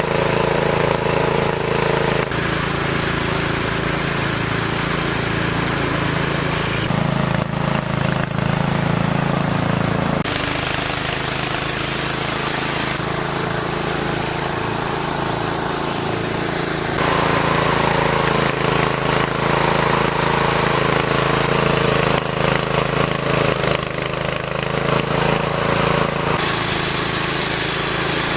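A small engine-driven machine running steadily with a fast pulsing beat. The tone shifts abruptly several times.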